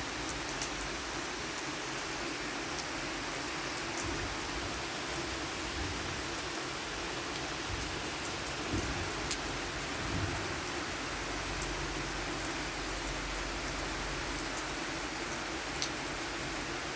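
Steady rain falling, with a few sharp drip taps of drops hitting something close by.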